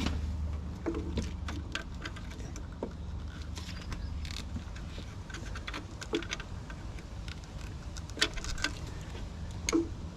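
Scattered light clicks and taps of a small flathead screwdriver and hands working at the alternator's plastic electrical plug in a car engine bay, with two sharper clicks near the end. A low steady hum runs underneath, strongest in the first second.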